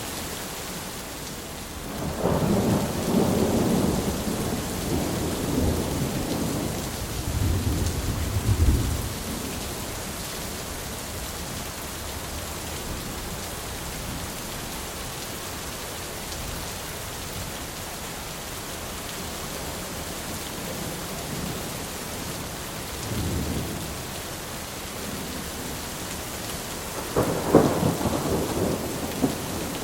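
Steady rain falling through a thunderstorm. A long roll of thunder rumbles for several seconds near the start, a short distant rumble comes about two-thirds of the way through, and a sharper, louder thunderclap breaks near the end.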